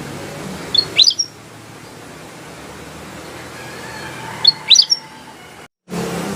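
Kutilang emas, a bulbul, giving two short bursts of quick, sharp chirps, one about a second in and another past the middle, over a steady low background hum. The audio cuts out briefly near the end.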